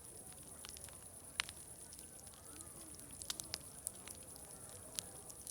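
Wood fire crackling, with sharp pops at irregular intervals, the loudest about a second and a half in. Underneath are faint distant crowd chatter and a steady high hiss.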